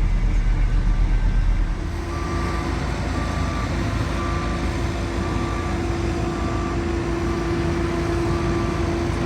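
Heavy road-construction vehicle's engine running with a pulsing low rumble. About two seconds in the sound changes to a steadier hum, and a backup alarm starts beeping about once a second as the machine reverses.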